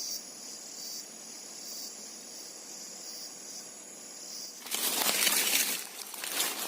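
Steady high-pitched drone of forest insects that stops about two-thirds of the way through, followed by a loud rustle of leaves and brush for about a second and a half.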